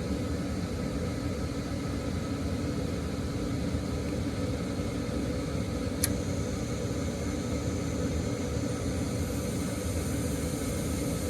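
Payne gas furnace's draft inducer motor running steadily during a start-up attempt after its gas valve was found switched off, with one sharp click about six seconds in.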